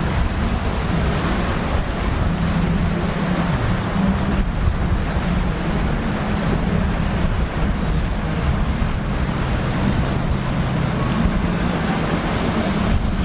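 Boat engines droning steadily over a constant rush of wind and breaking waves.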